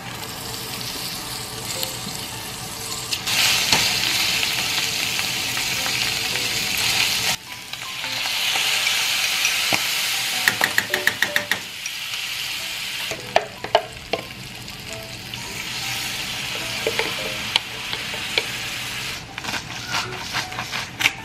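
Oxtail pieces with garlic and onion sizzling in hot oil in a stainless steel frying pan, being stirred and turned with tongs. The sizzle swells and dies down several times, with sharp clicks of the utensils against the pan in the second half.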